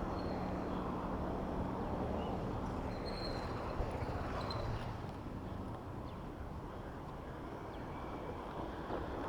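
Steady wind rush and road noise of a bicycle ride through city traffic, with traffic rumbling around the rider. It eases a little about halfway through.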